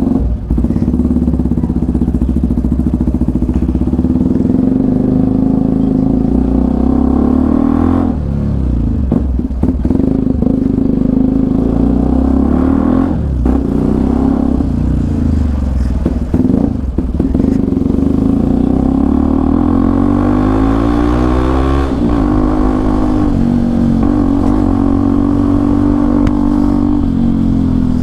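Hero XPulse 200 4V's single-cylinder engine running through an Akrapovic aftermarket exhaust, just started from cold. It runs steadily with a few brief dips, and its pitch climbs for a couple of seconds about two-thirds of the way through before falling back.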